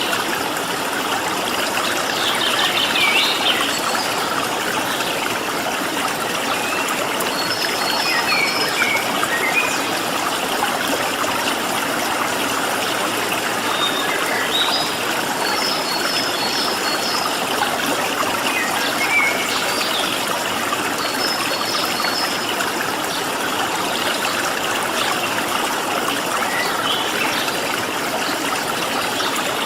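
Flowing stream water making a steady rush, with small wild birds chirping over it. The birds give short high calls and quick runs of repeated notes every few seconds.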